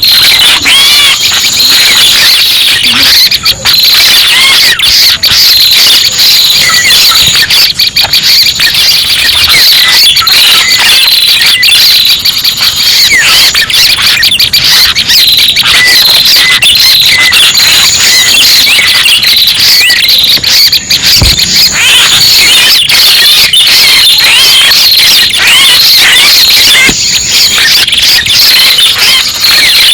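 Bird-luring recording of red-headed prenjak calls: a dense, loud stream of rapid chirps and short whistles that keeps on without pause.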